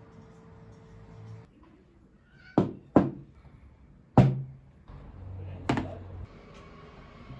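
Four sharp knocks on something hard: two in quick succession, a third about a second later, and a fourth about a second and a half after that.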